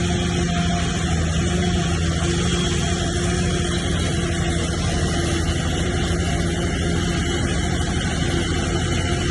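Diesel engine of heavy earthmoving equipment running steadily under even load, with a constant low hum and no change in pitch.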